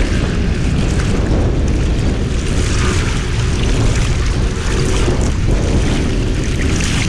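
Steady wind rumble buffeting the microphone over the continuous rush of surf.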